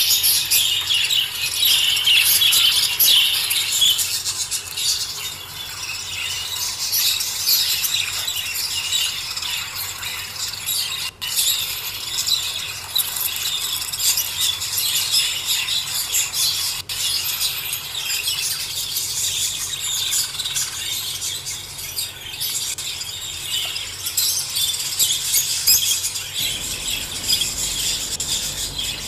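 Many small pet parrots such as budgerigars chirping and chattering together in a dense, continuous high-pitched twitter, broken by two momentary gaps.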